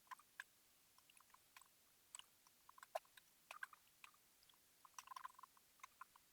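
Near silence, broken by faint, irregular small clicks and ticks, a few a second, with a cluster of them about five seconds in.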